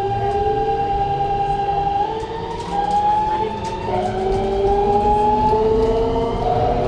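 Keikyu New 1000 series train's Siemens GTO VVVF inverter (the 'doremifa' inverter) singing its musical tones, stepping up in pitch several times as the train accelerates, over the low rumble of the motors and rails inside the car.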